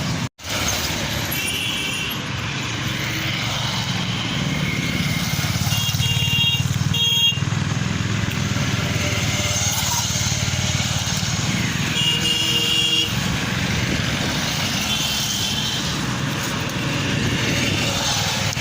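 Steady road traffic noise with a low rumble, with several short high-pitched tones scattered through it. The audio drops out briefly just after the start.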